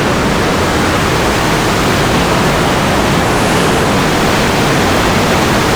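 Waterfall rushing over rocks, a loud, steady roar of falling water.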